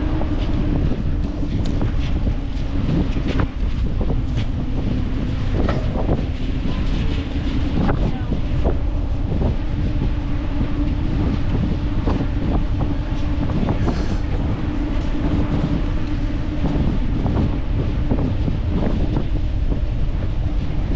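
Wind rushing over the microphone of a camera riding along on a moving bicycle: a steady noise with a low hum, broken by frequent small clicks and rattles.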